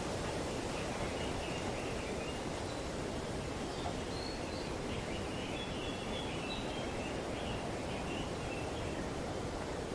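Steady rustling of wind through tree foliage, with faint high-pitched chattering of birds coming and going through the middle.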